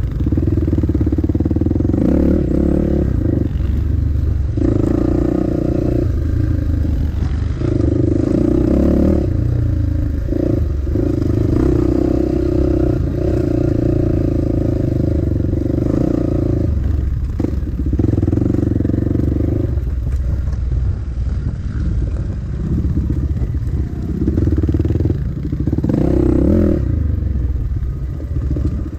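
Dirt bike engine on a trail ride, revving up and backing off every second or two as the throttle is worked, over a steady low rumble.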